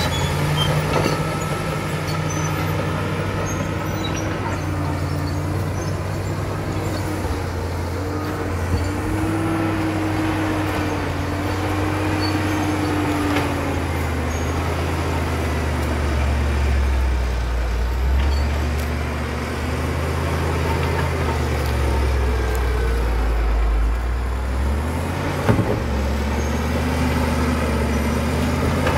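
Caterpillar D7 bulldozer's diesel engine running under working load, its note shifting as the load changes. A higher whine rises and falls about a third of the way through, the engine note deepens and grows heavier past the middle, and there are a few sharp knocks.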